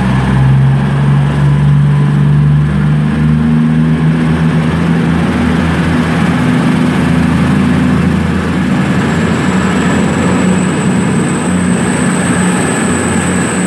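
Class 220 Voyager diesel-electric multiple unit pulling out, its underfloor diesel engines running steadily under load. A thin high whine joins in about nine seconds in.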